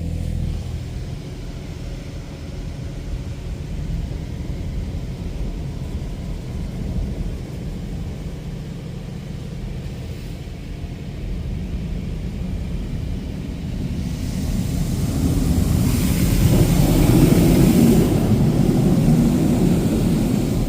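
Washworld Razor touchless car wash machinery running: a steady low rumble and hum of its pumps and motors. From about two-thirds of the way through, a hiss of water spray hitting the car grows louder, peaking shortly before the end.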